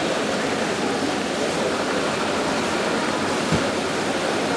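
Steady rushing rumble of a moving train heard from inside a railway coach, with a single low knock about three and a half seconds in.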